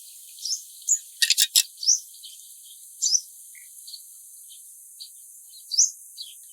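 Purple sunbird calling: short, high, upward-flicking chirps about once a second, with a quick run of three or four sharp notes about a second in, over a steady high hiss.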